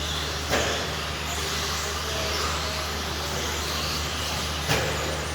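Radio-controlled stadium trucks racing on the track: a steady mix of motor whine and tyre noise over a steady low hum, with two sharp knocks, about half a second in and again near the end.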